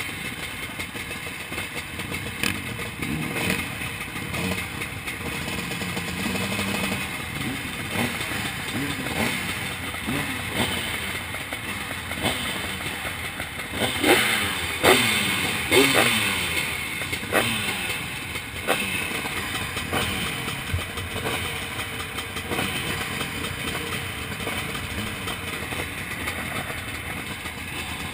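Zabel 700 two-stroke engine of a motocross sidecar outfit, heard onboard while racing, revving up and down through the gears. The hardest revving, a run of quick rises and falls in pitch, comes about halfway through.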